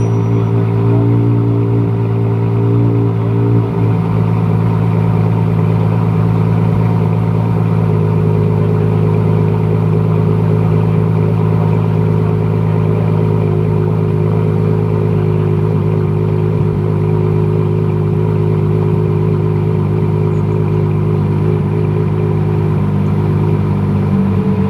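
Ferrari Monza SP1's 6.5-litre naturally aspirated V12 idling steadily, its pitch holding nearly constant, with a slight change about three and a half seconds in and again near the end.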